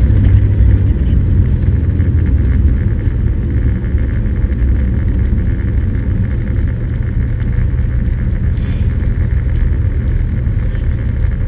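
Cessna 172's engine and propeller droning steadily, the strongest low hum easing slightly about a second in.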